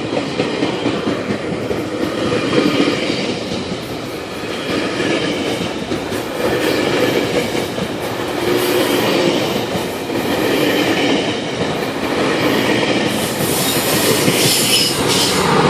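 Express commuter train running through the station at speed without stopping, its cars clattering over the rail joints with some wheel squeal.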